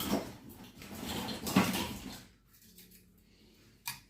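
Split firewood and kindling being stacked in a fireplace firebox, with pieces of wood knocking and scraping against each other. It is busiest for the first two seconds, with one sharper knock about a second and a half in, then goes quiet apart from a single click near the end.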